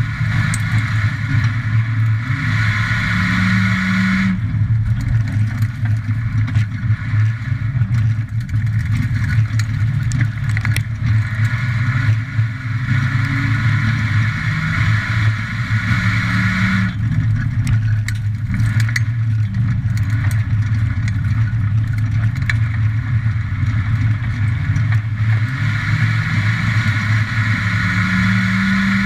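Onboard sound of a Ford Falcon XR6's straight-six racing engine under load around a dirt oval, with the cabin rattling. The engine note swells and eases in a repeating cycle of about twelve seconds as the throttle comes on and off.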